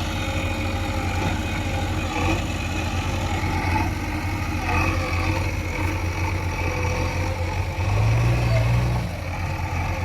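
Heavy diesel machine engine running steadily at a low rumble. About eight seconds in it revs up briefly, then drops back.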